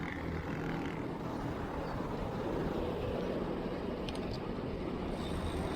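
Steady wind and road noise from a moving road bicycle, with a low rumble of motor traffic.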